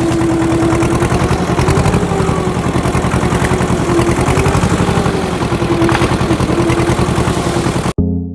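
An engine running steadily at idle with a fast, even pulsing. Near the end it cuts off abruptly and a synth-piano note begins.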